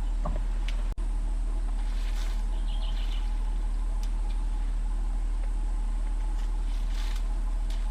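Faint splashes of an elephant spraying water on itself over a steady low rumble, with a brief dropout about a second in.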